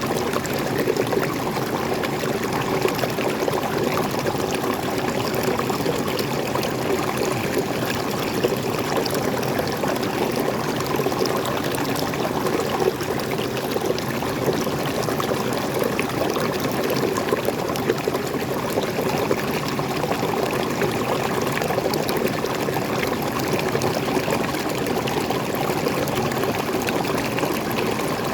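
Small waterfall and stream, water splashing and pouring over rocks in a steady, unbroken rush.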